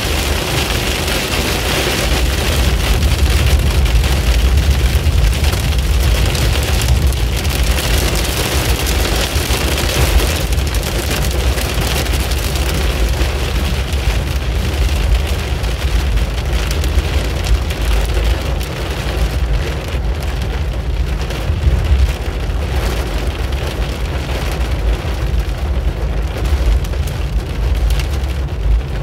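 Heavy rain pelting a car's windshield, heard from inside the cabin over a steady low road rumble. The patter thins somewhat in the last third as the downpour eases.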